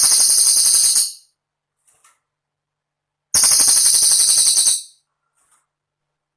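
Cililin songbird singing: two very high, fast jingling trills, each about a second and a half long, one at the start and one about three seconds in.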